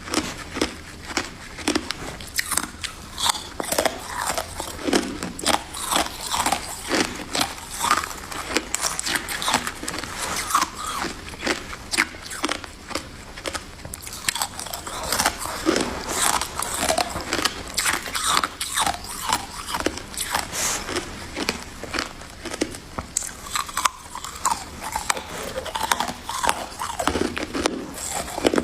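A person biting and chewing crunchy white freezer frost ice, a dense run of irregular crunches.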